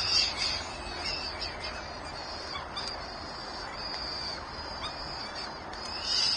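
High-pitched bird chirping at a nest, repeated and loudest just after the start and again near the end, over a steady hiss.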